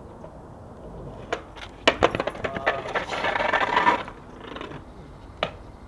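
Skateboard on concrete: a few sharp knocks of the board, then about two seconds of wheels rolling and scraping, with one more knock near the end.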